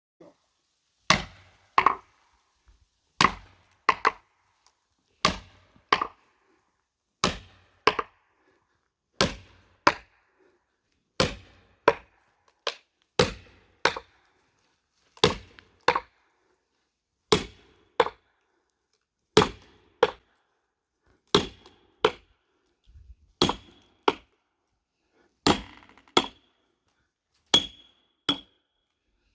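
Hammer blows on an axe head driven into a large log to split it for firewood: sharp strikes in pairs, a pair about every two seconds, the later blows leaving a short high metallic ring.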